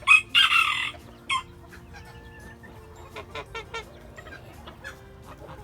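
Chickens calling: a loud, harsh squawk lasting under a second right at the start, a short call about a second later, then soft clucking and chirping from the flock.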